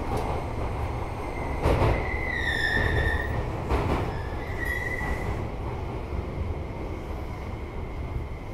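Electric commuter train running, heard from inside the passenger car: a steady low rumble of wheels on track, with a couple of rail-joint clacks. A high wheel squeal comes in twice, a longer one from about one and a half seconds in, then a short one around the fifth second.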